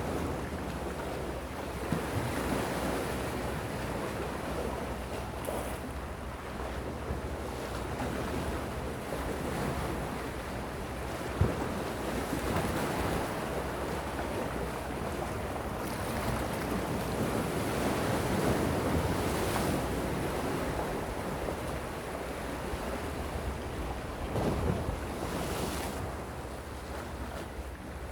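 Gentle sea waves washing onto the shore in slow, rolling swells, with a few brief sharper splashes. Wind rumbles on the microphone throughout.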